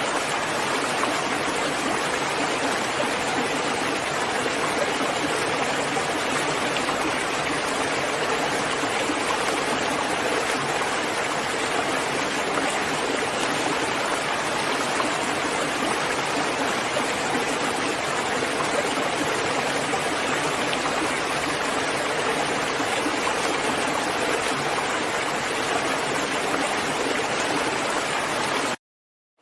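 Steady, even rain noise, with no rhythm or separate drops standing out. It cuts out abruptly near the end, a short gap of complete silence before it fades back in.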